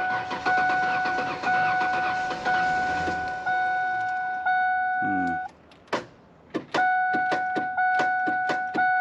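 Ford Ranger's dashboard warning chime dinging steadily about once a second. A rough whirring noise runs under it for the first four seconds or so, and after a short pause a rapid run of clicks sounds with the chime back on. This is the truck being tried on a jumper pack.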